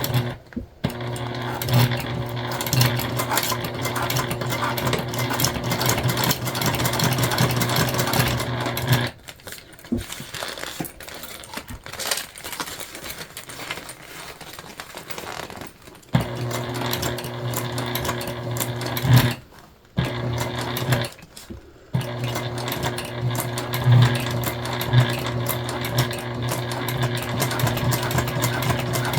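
Flatbed sewing machine running steadily while topstitching through jelly vinyl. It stops for several seconds about a third of the way in, runs again, pauses briefly, then stitches on steadily to the end.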